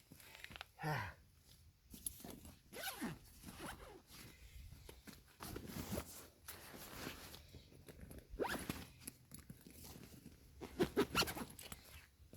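Zipper being pulled and clothing and gear rustling as a coat and kit are put on, in a run of irregular scraping sweeps with the loudest handling near the end.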